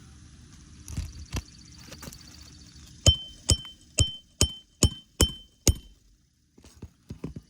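Hammer striking a metal roof snake to drive a roofing nail under a shingle: a couple of knocks, then a quick run of seven sharp, ringing metallic strikes, and a few lighter taps near the end.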